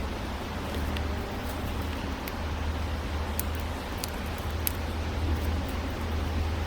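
Steady low rumble and hiss of outdoor background noise, with a few faint, short high ticks.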